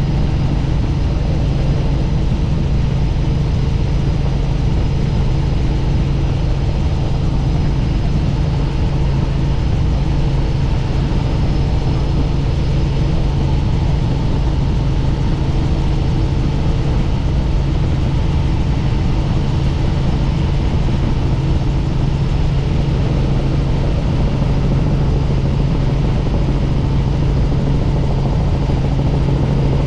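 Helicopter in flight: steady, loud engine and rotor noise with an even low hum that does not change.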